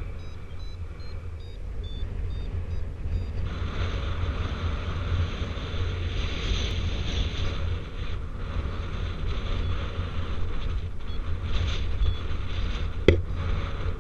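Wind buffeting the microphone with a steady low rumble during a paraglider flight in strong wind, with a variometer giving short high beeps that step in pitch during the first three seconds. A single sharp click sounds near the end.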